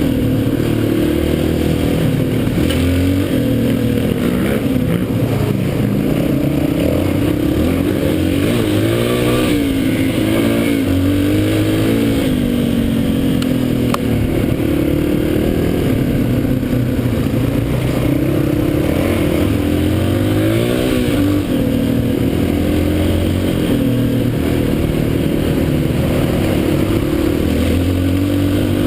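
Dirt bike engine running under way, its pitch repeatedly rising and falling.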